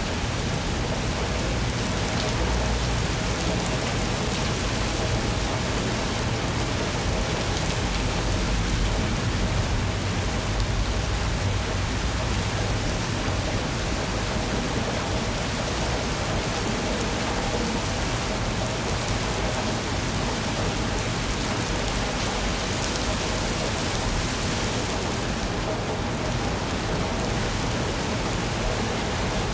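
Steady rain falling, an even hiss with no pauses or separate events.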